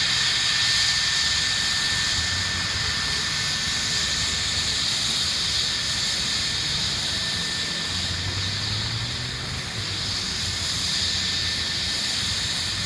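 Police helicopter flying overhead: steady turbine whine and rotor noise, the high whine growing weaker about halfway through.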